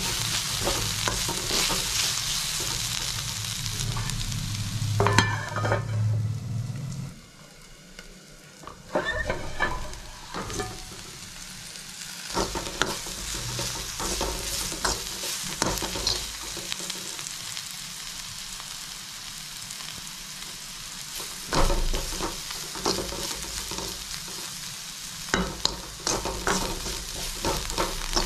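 Bitter gourd strips sizzling in oil in a kadai while a steel spoon stirs them, scraping and clicking against the pan. The sizzle drops off about seven seconds in and carries on more softly under the spoon's scrapes.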